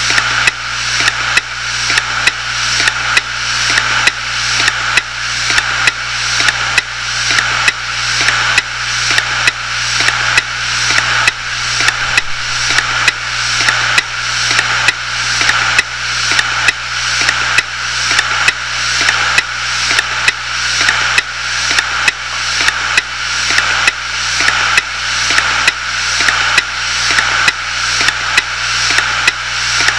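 Failing 250 GB Hitachi Deskstar 7200 RPM IDE hard drive clicking at a steady, even beat, a little more than once a second, over the constant whir of the spinning platters. This is the clicking the drive died with.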